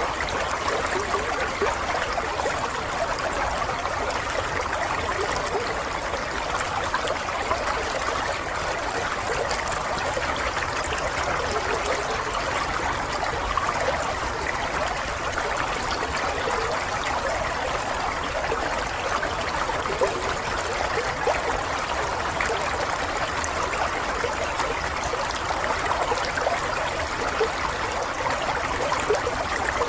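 Steady running water, a stream trickling and babbling over stones, with many small splashes and no pauses.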